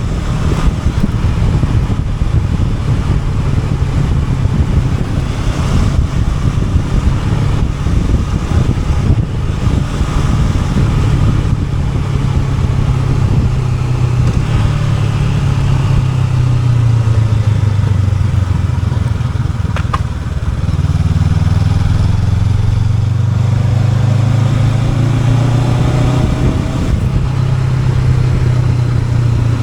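Honda NX500 parallel-twin engine running steadily under way, with wind noise over it. About two-thirds of the way through, the engine note dips and then rises again as the throttle or gear changes.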